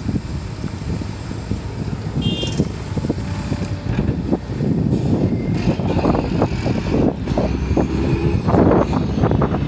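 Excavator's diesel engine running steadily, with repeated knocks and clanks from the machine's work that grow busier in the second half. A brief high-pitched tone sounds about two seconds in.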